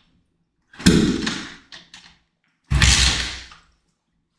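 Two heavy thuds about two seconds apart, each dying away over about a second: attempts to kick-start a dirt bike that does not fire, said to have no gas.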